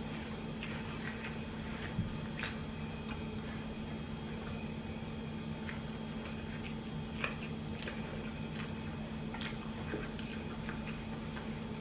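A person chewing a crunchy taco close to the microphone: wet mouth sounds with scattered small crunches and clicks, over a steady low hum.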